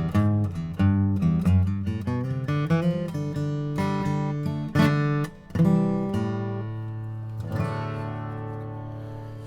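Yamaha FG830 steel-string acoustic guitar playing the closing instrumental run of the song: a quick string of picked notes, then a final chord strummed about two thirds of the way in and left to ring out and fade.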